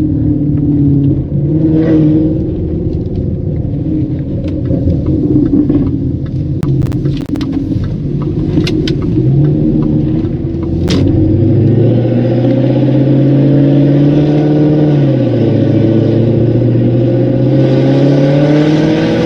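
Range Rover L322's 5.0-litre supercharged V8 running loud through a Gorilla aftermarket exhaust with 200-cell catalytic converters. Its pitch drops around two-thirds of the way in, then climbs steadily near the end as it pulls. A few sharp knocks are heard in the middle.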